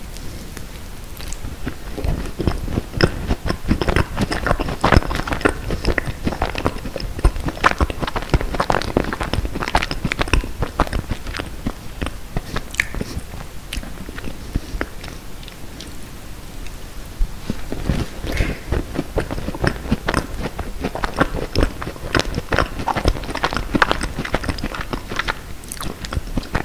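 Biting and chewing a macaron close to the microphone: the crisp shell crunching and the soft filling being chewed. Two spells of dense crunching with a quieter stretch about halfway.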